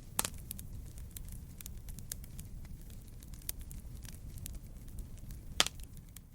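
Wood fire crackling in a fireplace: a steady low rumble of flames under a stream of small sharp crackles, with a louder pop near the end.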